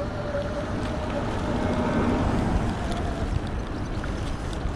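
Steady wind rumble on a GoPro's microphone, with a faint steady whine that fades out about a second and a half in.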